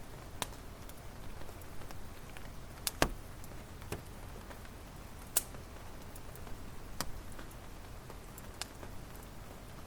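Firewood burning in a campfire, with a low steady rustle and scattered sharp crackles and pops, about one every second or two; the loudest pop comes about three seconds in.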